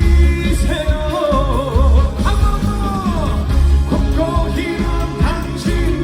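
Live trot song with band backing and a male lead vocal: a heavy bass-drum beat under a sung melody with vibrato. The voice holds a note that slides down about three seconds in.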